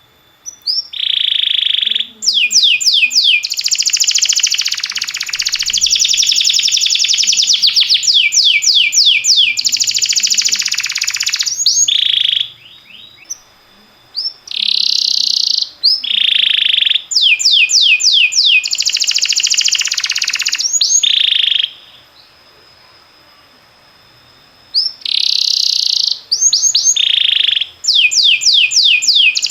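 Domestic canary singing: long song phrases of rapid trills and rolls, with quick runs of falling notes between held buzzing rolls, broken twice by pauses of about two seconds.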